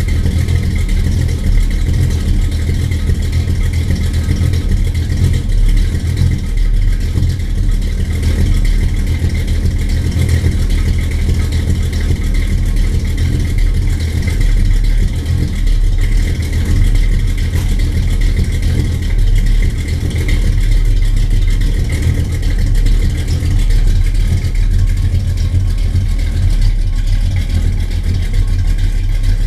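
Car engine idling steadily, its sound mostly a low rumble with no revving.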